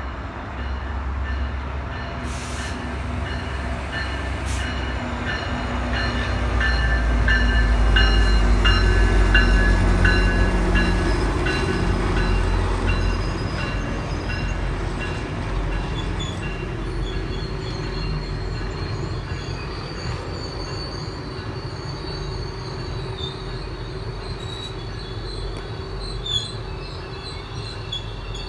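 GO Transit commuter train running past on the rails: a low rumble that builds to its loudest about eight to ten seconds in, then eases, with high steady squealing tones from the wheels on the rails.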